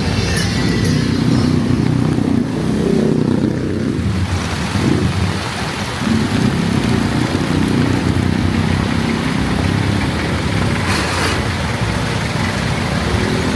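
Road traffic passing close on a wet street: car and motorcycle engines running and accelerating over a steady hiss of rain. There is a short hiss about eleven seconds in.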